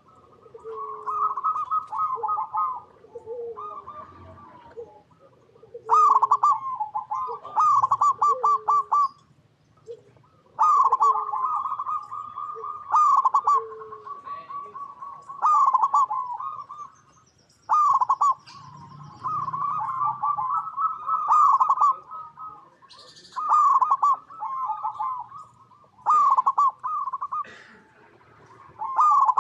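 Zebra dove (perkutut) singing its cooing song: phrases of quick staccato notes, repeated every couple of seconds.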